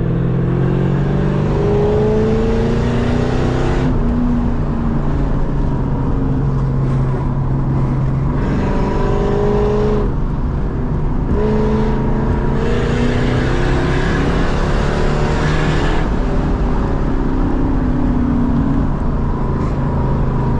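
Lexus SC400's 1UZ 4.0-litre V8 with a loud exhaust, pulling hard and easing off again and again. The engine note climbs and drops back about five times.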